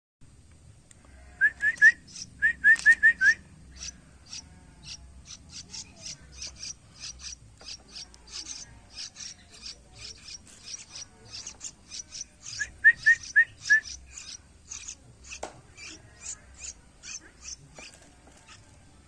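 A young yellow-vented bulbul (trucuk) chick calling with a steady stream of thin, high chirps, several a second. Twice, about a second and a half in and again near thirteen seconds, a quick run of louder, short rising whistled notes cuts in.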